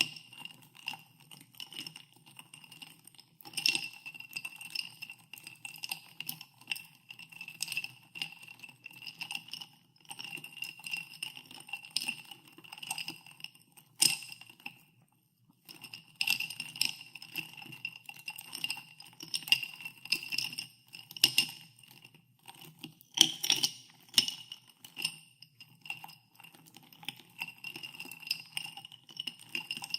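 Ice cubes stirred in a glass of carbonated water, clinking quickly and repeatedly against the glass, which keeps ringing between the knocks. The stirring stops for a moment about halfway through.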